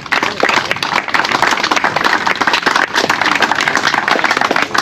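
Crowd applauding: many hands clapping at once, steady throughout.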